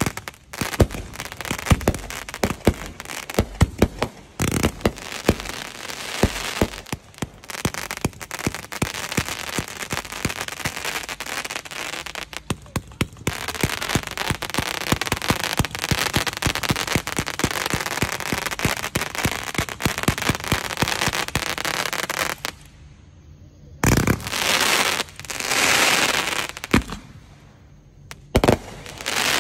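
Loud aerial fireworks going off in a rapid barrage: many sharp bangs packed together, then a spell of dense continuous crackling. About twenty-two seconds in it thins out to a few separate bangs and a hiss lasting about a second.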